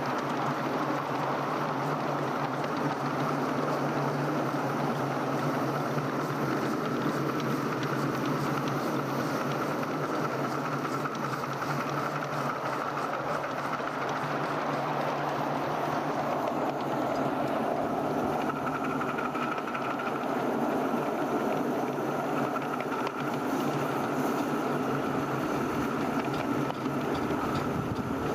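A 7¼ inch gauge miniature railway train running steadily along the track, its noise even and unbroken.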